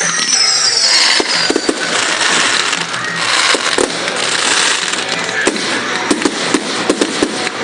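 Display fireworks going off: a falling whistle in the first second or so over continuous crackling, then from about halfway on a rapid string of sharp cracks and pops.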